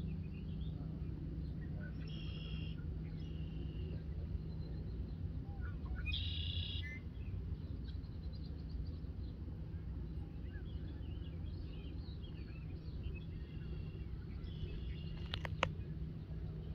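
Birds calling: a few short calls of about half a second each, the loudest about six seconds in, with scattered faint chirps over a steady low rumble. A sharp click comes near the end.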